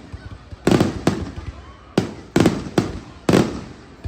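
Fireworks exploding in a finale: a string of sharp bangs in small clusters about a second apart, each trailing off in a rumble.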